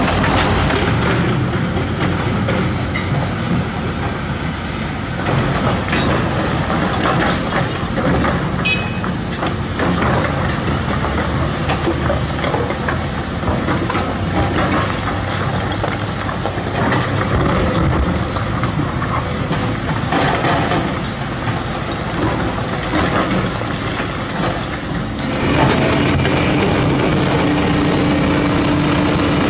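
A hydraulic excavator's diesel engine runs under load while digging, with scattered knocks and clanks of the bucket and dirt. Near the end the machine gets louder and a steady drone comes in.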